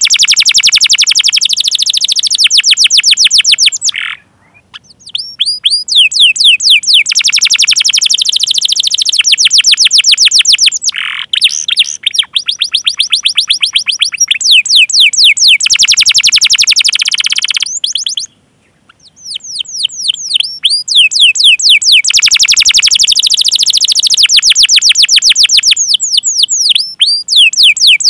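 Domestic canary in full song: long, fast rolling trills of repeated high, downward-sweeping 'cuit cuit' chirps, broken by two short pauses.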